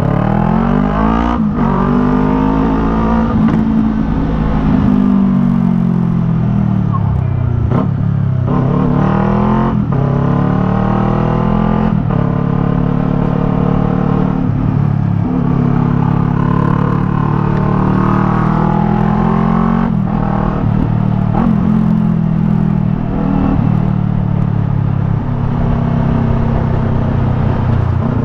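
Yamaha MT-03's 321 cc parallel-twin engine through a Jeskap R3 Cup aftermarket exhaust, ridden hard: the engine note repeatedly climbs in pitch and drops back as the rider shifts up and eases off, a dozen or so times.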